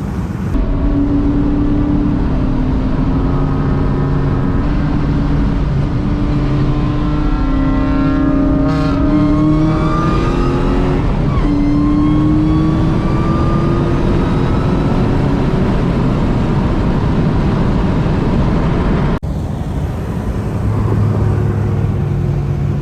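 Supercharged Ford Mustang SVT Cobra V8 accelerating hard through the gears. Its pitch climbs and drops back at each shift, with a faint high supercharger whine rising with the revs, then it settles to a lower, steadier drone.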